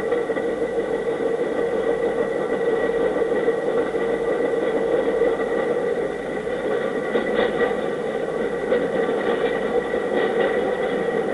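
A steady mechanical hum with a whir and a few steady tones, with a few faint clicks in the second half.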